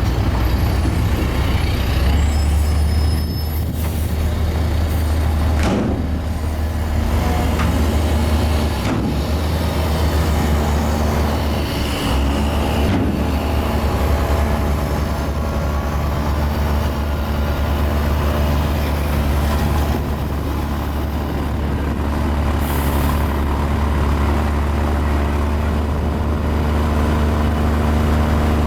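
Mini Komatsu bulldozer's diesel engine running steadily under load as it pushes fill, with occasional metallic clanks and squeaks from the tracks and blade.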